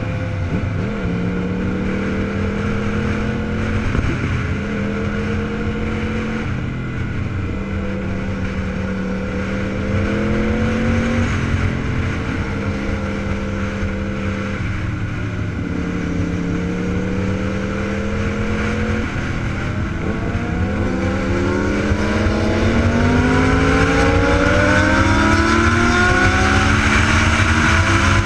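Superbike engine accelerating through the gears: its pitch climbs in each gear and drops back at each upshift, several times over, with a longer, louder climb near the end.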